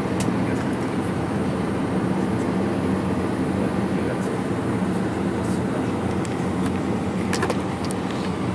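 Steady low hum of an airliner on the ground, heard from inside the cabin, with a few faint clicks about seven seconds in.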